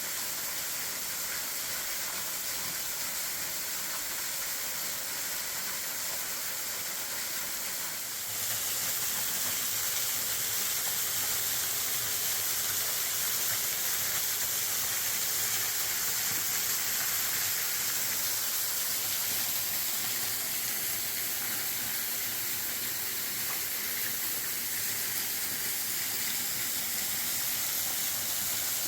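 Waterfall pouring steadily, a constant rushing hiss of falling water that gets a little louder about eight seconds in.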